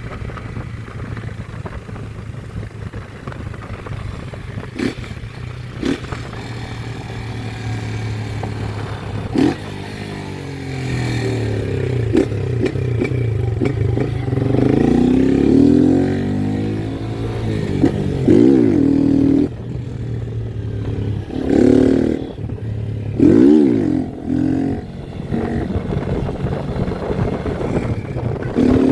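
Motorcycle engine running steadily, then revved repeatedly from about halfway through, its pitch climbing and dropping with each burst of throttle.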